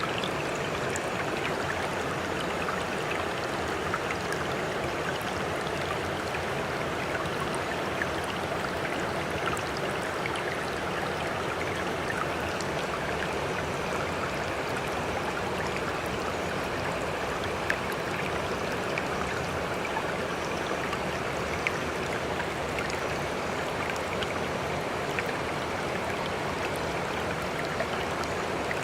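Steady rushing, trickling seawater with small drips and splashes scattered through it, holding an even level without the rise and fall of breaking waves.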